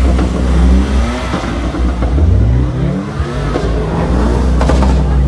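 Performance car engine running loudly and revving, its pitch climbing about halfway through, with a sharp crack near the end.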